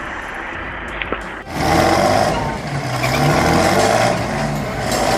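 Heavy vehicle engine running steadily, then a cut about a second and a half in to a louder engine revving under load, its pitch rising and falling.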